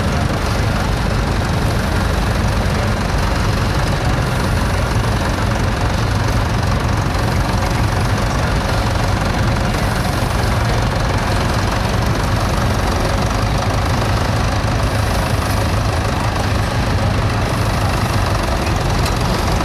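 Tractor engine running steadily and unchanging.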